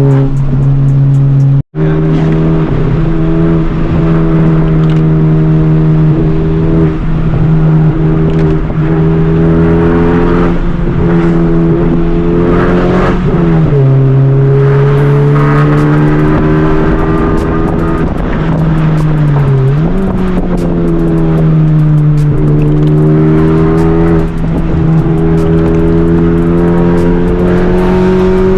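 Honda Civic Type R's turbocharged four-cylinder engine and exhaust running hard at sustained revs. Its steady drone drops in pitch and climbs back a few times, as with gear changes. The sound cuts out briefly about two seconds in.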